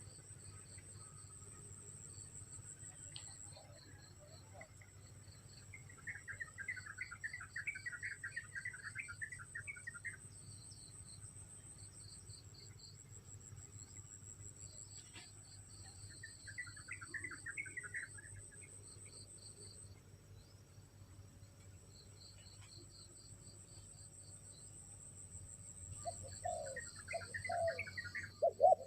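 Crickets and other insects trilling steadily, with three bursts of rapid bird chirping. Near the end, spotted doves begin cooing.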